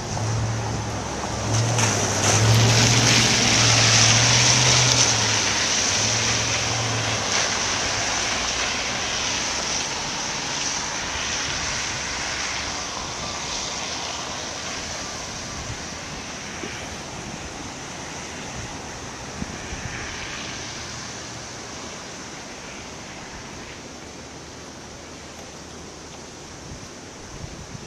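Storm wind from Hurricane Irene gusting, with the wind buffeting the microphone. The gust builds over the first few seconds, then slowly dies away.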